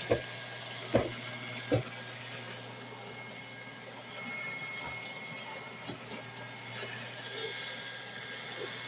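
Roomba robot vacuum running with a steady whirr and faint whine. It makes three sharp knocks in the first two seconds.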